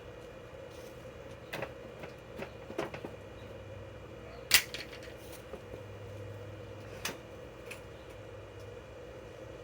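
A few scattered sharp clicks and knocks, the loudest about halfway through, from tools and drill bits being handled, over a steady faint hum; no drill running.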